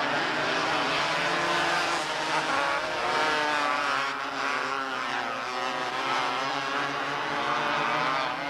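Several small race car engines running at speed together, their pitches overlapping and rising and falling as the cars accelerate and lift around the track.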